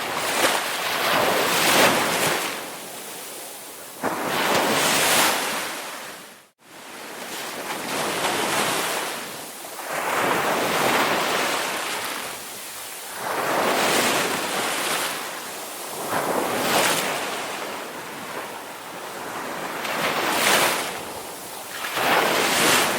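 Ocean waves breaking and washing ashore, the surf swelling and ebbing every few seconds. The sound cuts out for a split second about six and a half seconds in.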